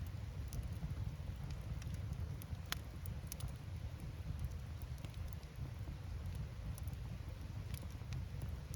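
Firewood burning in an open campfire: scattered, irregular crackles and pops from the burning wood over a steady low rumble.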